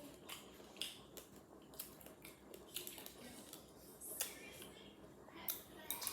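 Close-up eating sounds: a person chewing a mouthful of fruit in coconut milk, with pomegranate seeds crunching and wet mouth clicks coming irregularly, several a second at times.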